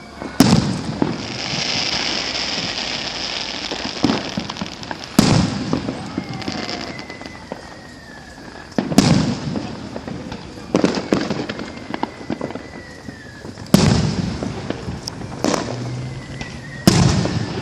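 Fireworks going off: five loud booms a few seconds apart, each followed by crackling, with faint falling whistles in between.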